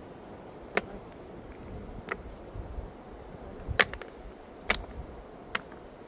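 Five sharp knocks at irregular intervals, the loudest a little under four seconds in, over a steady low rushing background.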